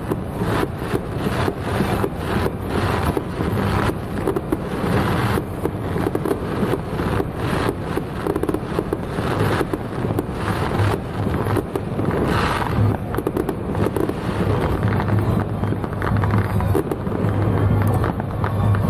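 Fireworks going off, many irregular bangs and crackles one after another over a steady low hum.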